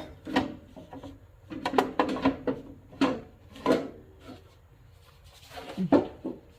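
Hard parts knocking and clunking as the tractor's range selector shift lever part is worked up into place through its opening: a run of separate knocks, then a quiet spell and one more knock near the end.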